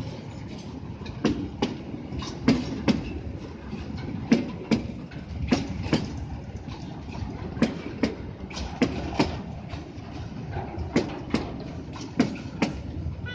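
Railway tank wagons rolling slowly, their wheels clicking over the rail joints in a steady clickety-clack, a double click every second or two, over a low rumble.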